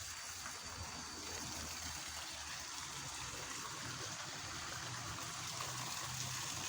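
Fast-flowing water rushing steadily in a small ditch swollen by overnight rain.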